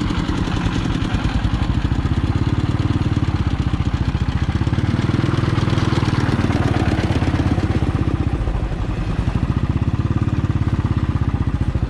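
Motorcycle engine running steadily at low revs, a fast, even pulse of firing strokes, as the bike is ridden slowly.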